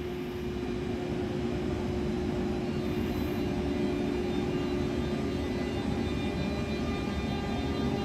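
Locomotive running steadily: a constant drone with a held whine over it, slowly growing louder.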